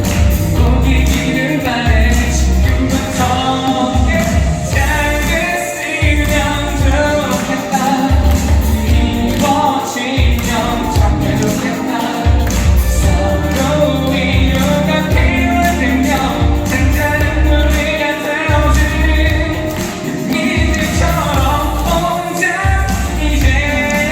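Upbeat pop song performed live: a male singer over a backing band with a steady, driving bass beat.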